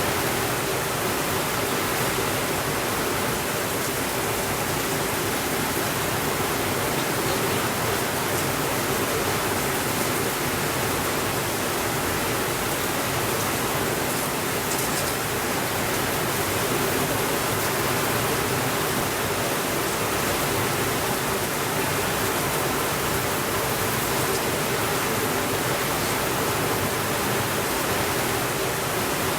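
Steady heavy rain, an even hiss with no change in level, with a few faint, brief crackles from a wood fire.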